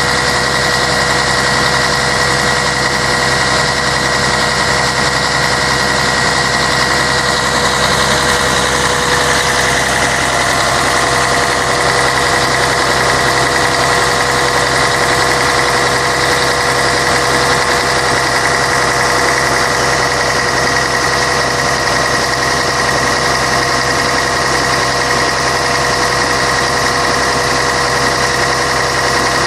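Scania K113 bus's 11-litre straight-six diesel engine running steadily, with a constant drone and a high whine. The whine shifts slightly about ten seconds in.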